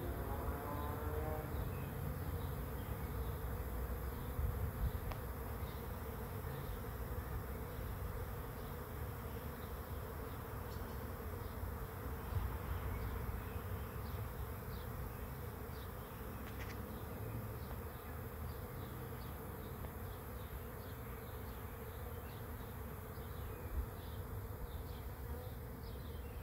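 A swarm of honeybees buzzing steadily, the massed hum of many bees flying around the swarm trap.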